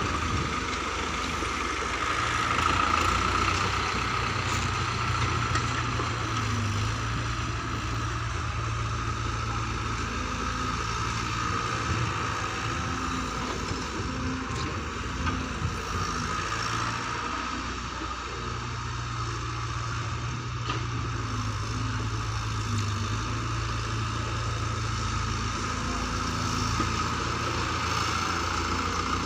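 A large engine running steadily, its low hum growing stronger for long stretches and easing off in between.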